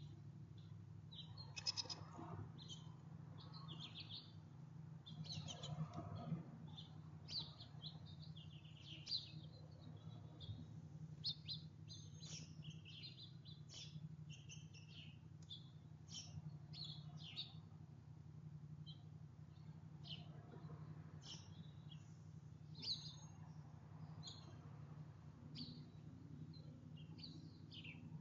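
Small songbirds chirping and twittering faintly, many short calls coming irregularly throughout, over a steady low hum.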